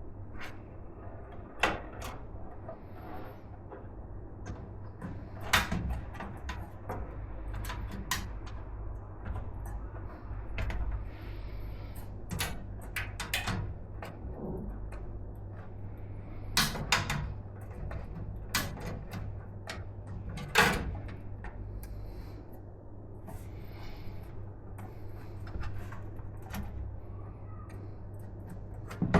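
Scattered clicks, knocks and light rubbing of computer parts being handled and fitted during a PC build, over a steady low hum.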